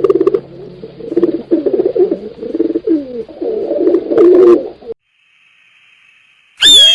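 Pigeons cooing, several low, throbbing calls overlapping for about five seconds. After a brief pause, a loud cry with a falling pitch starts just before the end.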